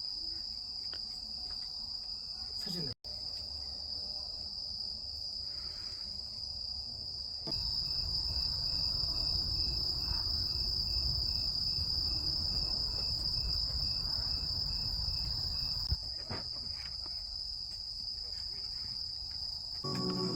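Steady high-pitched chorus of crickets and other insects. From about seven seconds in to about sixteen seconds, a second insect chirps in an even pulse about twice a second, over a low rumble. The sound cuts out for an instant about three seconds in.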